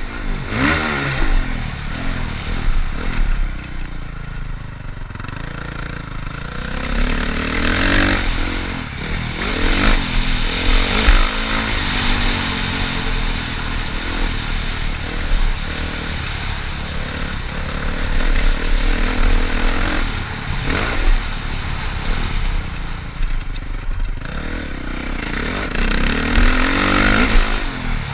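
Motocross bike's engine revving up and dropping back over and over as it is ridden, the pitch climbing and falling every few seconds under a rough, noisy wash.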